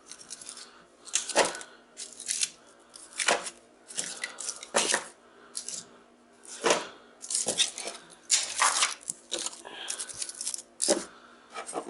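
Scrap copper windings from stripped transformers being handled and piled onto a scale for weighing: a dozen or so irregular metallic clinks and rustles with short gaps between.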